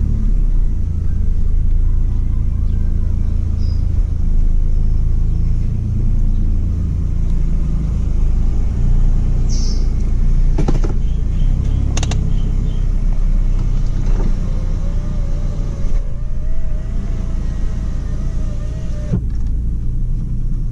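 Toyota JZX100's 1JZ-GTE VVT-i turbocharged straight-six running while the car is driven. There are a couple of sharp clicks about halfway, and a steady whine in the later part cuts off suddenly near the end.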